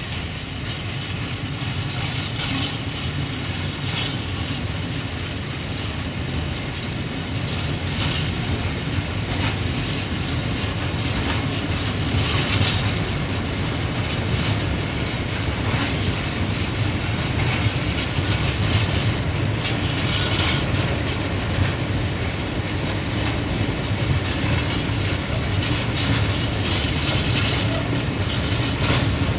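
Freight train of tank wagons rolling past: a steady rumble of steel wheels on the rails with irregular clicks and clanks as the wheelsets pass over rail joints.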